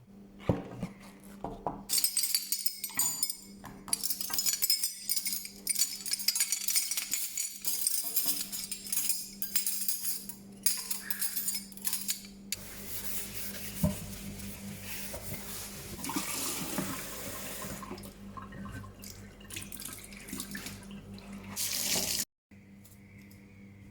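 Tap water running into a sink in on-and-off stretches while things are washed, with scattered knocks and clinks of items being handled.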